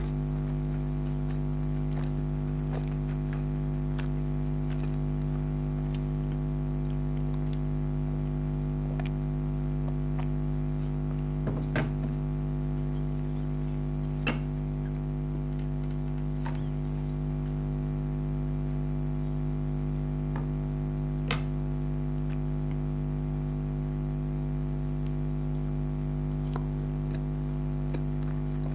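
Mouth-close eating sounds, chewing with a few sharp clicks and crunches, the loudest about twelve and fourteen seconds in, heard over a steady low electrical hum.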